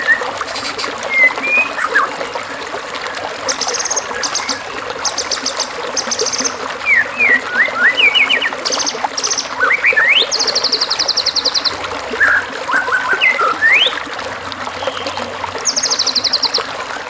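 Songbird calls on a masteran (song-training) track for white-rumped shamas: short whistled notes sliding up and down, alternating with high, rapid buzzy trills every few seconds, over a steady trickle of running water.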